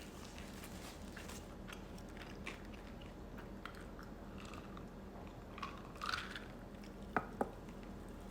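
Close-up chewing of chewy rice cakes and ramen noodles, with many small wet mouth clicks. There is a louder smeared mouth sound about six seconds in, and two sharp clicks a quarter second apart near the end.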